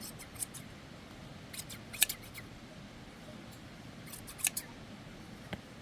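Shears snipping through sheep's wool: short runs of crisp snips with pauses between, the loudest run about two seconds in.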